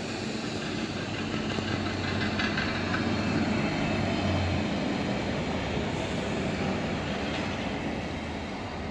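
Regional diesel multiple unit running along the platform past the listener: a steady engine drone under the rumble of wheels on rail. The engine hum drops away about four and a half seconds in.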